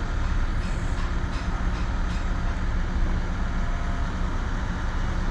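A train approaching the platform: a steady low engine drone and rumble, with wind rumbling on the microphone.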